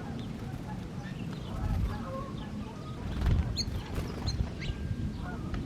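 Small birds chirping in short, high calls over a steady low rumble.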